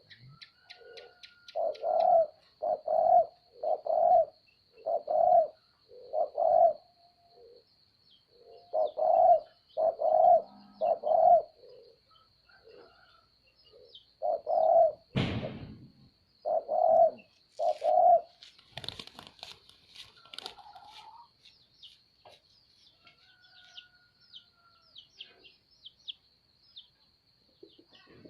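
A dove cooing over and over, with loud low coos in runs of several notes about a second apart and short pauses between runs. A faint steady high whine runs underneath, a single sharp knock comes about fifteen seconds in, and light chirps from small birds follow.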